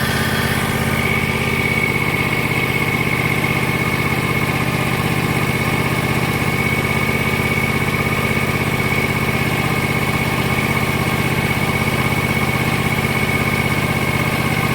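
A small engine idling steadily and evenly. A thin, steady high whistle joins it about a second in.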